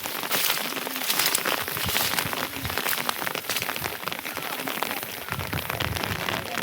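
Rain falling steadily, a dense patter of many drops striking a hard surface.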